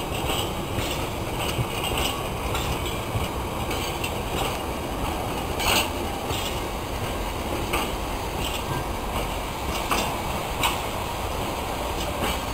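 Freight train of empty container flat wagons rolling past: a steady low rumble with irregular knocks and clanks, the loudest about six seconds in.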